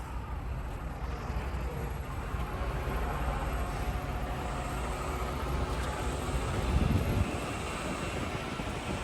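Semi truck's diesel engine running steadily as it rolls in, a continuous low rumble with a brief louder swell about seven seconds in.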